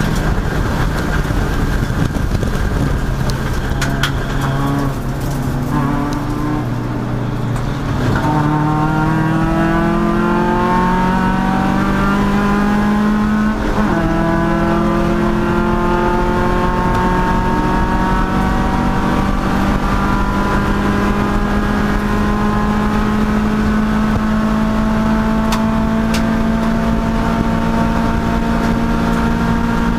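Race car engine running under load. The note is lower and uneven for the first few seconds, then the revs climb steadily under acceleration, dropping briefly at a gear change about 14 seconds in before climbing again.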